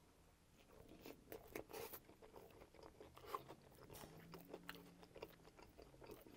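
Faint close-miked mouth sounds of chewing a bite of hot dog in a soft bun: scattered small crunches and wet clicks at an irregular pace.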